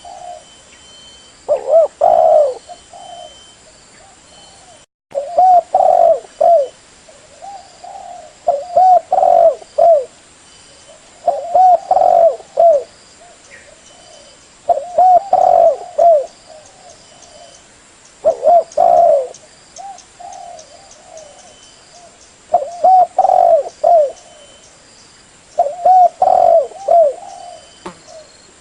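Spotted dove cooing: a short phrase of several rounded coos repeated about every three to four seconds, with faint high chirps of other birds behind it.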